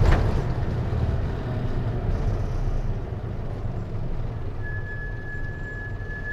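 Hino Liesse microbus with a J05C diesel engine and automatic transmission, heard from inside while running: a low, steady engine and road rumble that slowly gets quieter. There is a sharp knock right at the start, and a steady high-pitched whine comes in about four and a half seconds in and holds.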